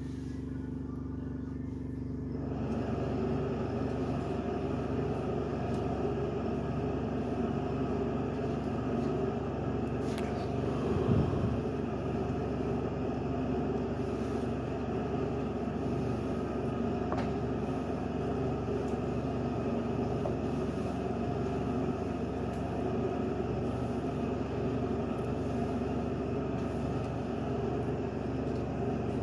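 Steady mechanical hum with a fixed tone running through it, growing fuller about two and a half seconds in, with a brief low swell near the middle and a couple of faint clicks.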